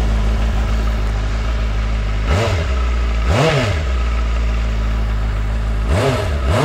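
Benda LFC700's four-cylinder engine running at idle and blipped four times, in two pairs, the revs rising and dropping back quickly each time. The exhaust note has a slight rasp, which the owner puts down to the mesh inside the exhaust outlets.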